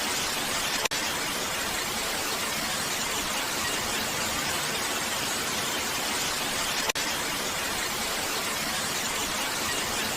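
Steady heavy rain hiss, even and unbroken, with two brief clicks about six seconds apart.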